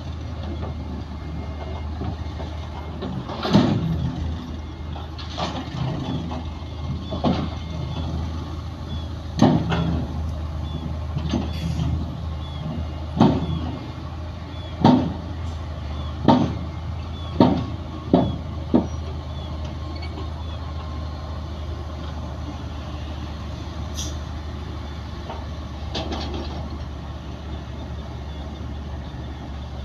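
Heavy diesel earthmoving machinery, bulldozer and dump trucks, running steadily with a low drone, broken by a series of sharp clanks every second or two through the first two-thirds, with two more later. Faint short high chirps repeat about once a second in the middle.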